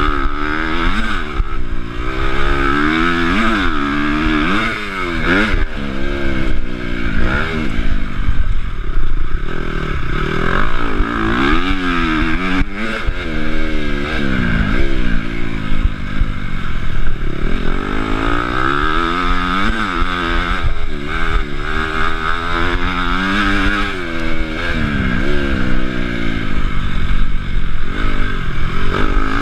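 Honda CRF250 motocross bike's single-cylinder four-stroke engine revving up and dropping back again and again as the rider accelerates and backs off around the track. A low wind rumble buffets the chest-mounted camera's microphone.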